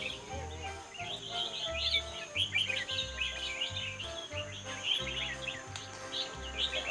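Many caged songbirds chirping and singing at once in a busy overlapping chorus, over background music with steady bass notes.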